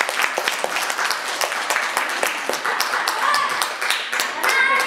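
Audience applauding with dense clapping. A short pitched voice-like sound rises over it about three seconds in. Near the end a held, steady pitched sound joins the clapping.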